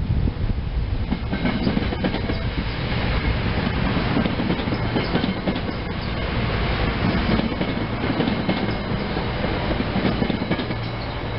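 SEPTA Silverliner IV electric multiple-unit commuter train passing, with a steady loud running noise and its wheels clicking repeatedly over the rail joints.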